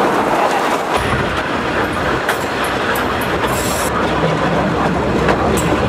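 Small train of an old locomotive and a single wagon running along the line: a steady rumble and rattle of wheels on the track, with short high-pitched wheel squeals now and then from about two seconds in.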